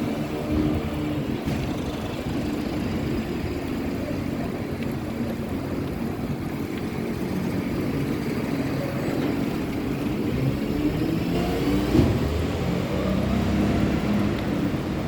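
Street traffic: motor vehicles running past, one accelerating with a rising engine note about ten seconds in.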